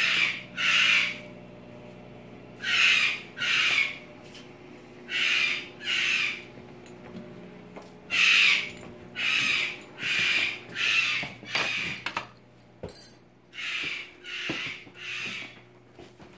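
A bird calling loudly and repeatedly: about a dozen harsh calls of roughly half a second each, mostly in pairs, with a short pause between groups.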